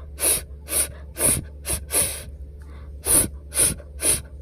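A voice repeating the letter F's phonics sound, a short breathy 'fff', about eight times in quick succession.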